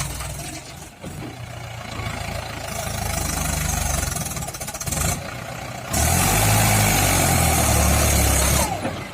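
Heavy diesel engine running, growing louder for a couple of seconds and easing back. About six seconds in it is much louder for nearly three seconds, with a strong low drone and a hissing rush, then drops off abruptly.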